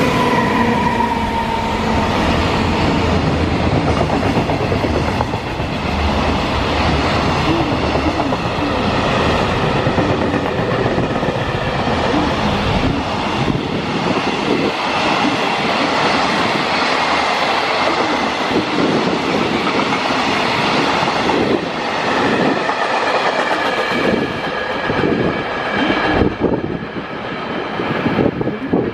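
Freight train of container wagons hauled by a JR Freight EF510 electric locomotive running past, with a continuous rumble and wheels clicking over the rail joints, and faint wheel squeal above it. A steady pitched tone at the start fades out within about two seconds.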